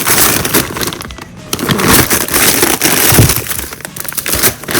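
Plastic food packaging crinkling and crackling as frozen food packs are handled and moved around, with irregular sharp crackles throughout.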